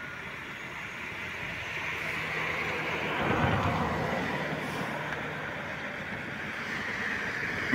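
A Hyundai i20 hatchback's engine running at low speed as the car creeps past close by, growing louder to a peak about three and a half seconds in, then easing off.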